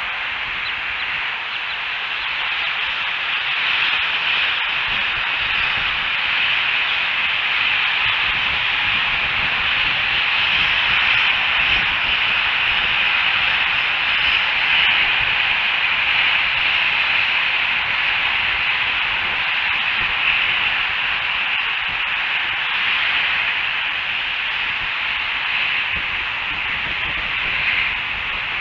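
Steady hiss picked up by an outdoor nest camera's microphone, swelling slightly in the middle and easing again near the end, with no calls or knocks standing out.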